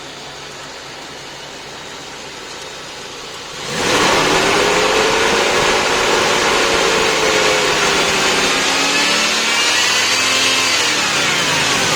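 Jeep Grand Cherokee ZJ's 5.9 Magnum V8 engine, first a low steady hum, then revved about four seconds in: the sound jumps much louder and the engine note rises and falls in pitch twice.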